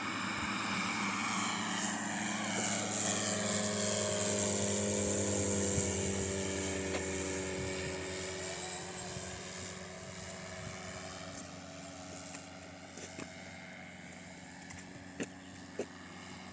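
Propeller drone of a radio-controlled C-160 model transport plane flying past, growing louder and then falling in pitch as it goes by before fading away. A few faint clicks near the end.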